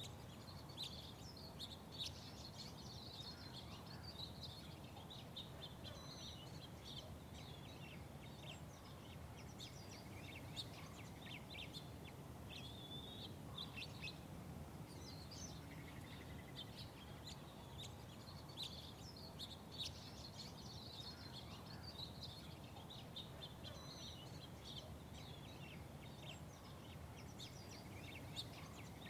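Small birds chirping and twittering, many short overlapping calls and trills throughout, over a steady low hum of background noise.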